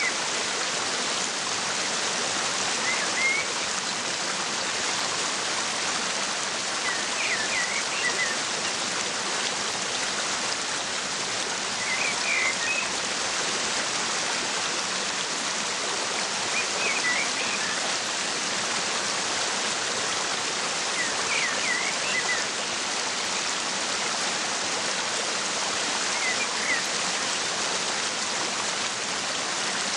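Steady rushing of a waterfall, with a bird giving short bursts of chirps about every four to five seconds.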